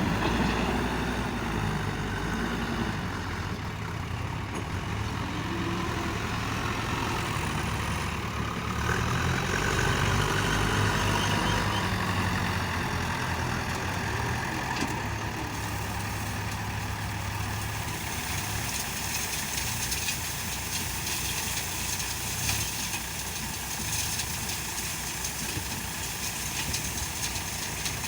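Diesel engines of JCB 3DX backhoe loaders running under work, the pitch rising and falling now and then as the machines are worked.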